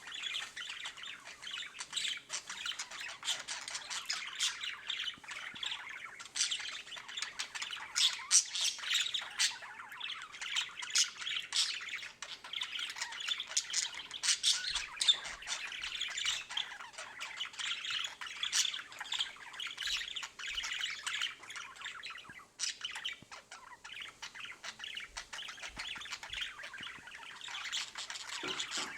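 Budgerigar chattering and squawking without pause, a dense run of short rapid calls and clicks.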